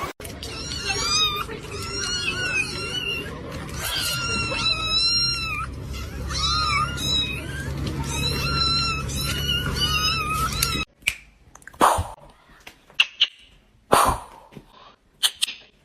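A cat meowing and yowling in a string of long, wavering, high-pitched calls over a low hum for about eleven seconds, which stop suddenly. After that come a few short, separate puffs of sound.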